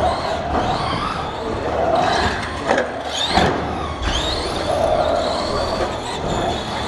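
Radio-controlled racing trucks' motors whining, the pitch rising and falling as they speed up and slow down around the track, with a couple of sharp knocks about halfway through.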